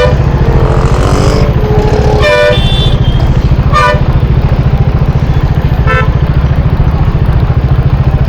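Motorcycle engine running steadily with a low, fast pulsing note, while vehicle horns toot in short blasts three times in traffic.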